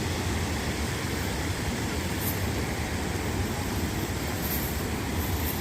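Steady rushing of a stream running high and fast over its bed, an even hiss with a low rumble beneath and no breaks.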